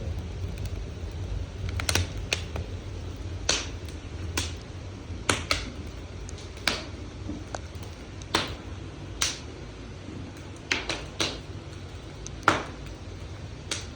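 Wood fire crackling in a newly built fireplace on its test firing: sharp pops at irregular intervals, roughly one a second, over a low steady rumble.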